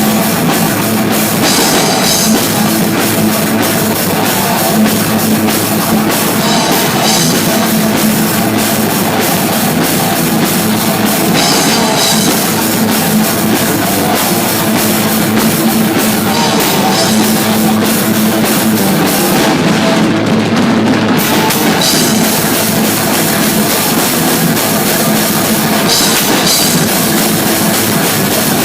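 Loud heavy rock music played by a band, with a driving drum kit and guitar. The cymbals drop out briefly about twenty seconds in.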